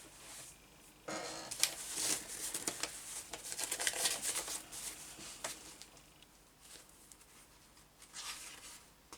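Sheets of paper rustling and crinkling as they are leafed through and handled. The handling is busiest from about a second in to about six seconds, with a shorter rustle near the end.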